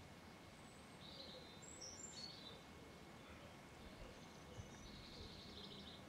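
Faint high bird calls over a quiet background hiss: a few short chirps about one to two seconds in, and a brief rapid trill near the end.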